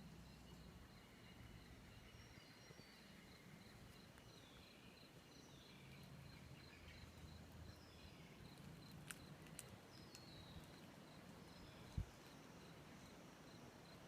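Faint rainforest ambience: scattered bird calls over a steadily repeating high chirp, with a few sharp clicks near the middle and a single low thump about twelve seconds in.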